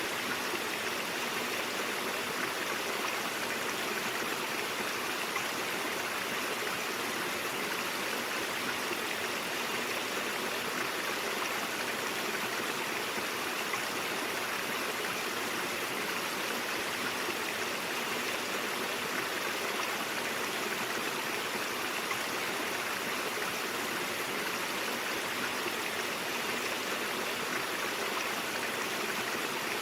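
Brook flowing steadily: an even, unbroken rush of running water.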